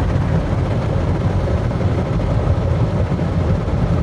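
Automatic car wash machinery running: rotating wash brushes scrubbing the car with water spraying. It makes a loud, steady, low rumble.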